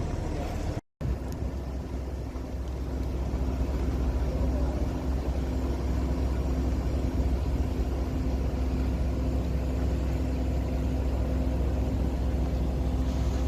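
Large engine running steadily, a deep drone with a constant low hum; the sound cuts out for a moment about a second in.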